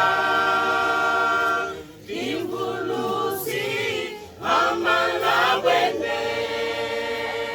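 Church youth choir singing unaccompanied, in harmony, holding a long chord at the start and another near the end, with shorter sung phrases between.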